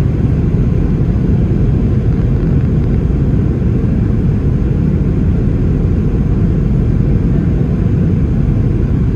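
Steady cabin noise inside a Boeing 737-800 in flight or on the runway: engine and airflow noise, deep and unchanging.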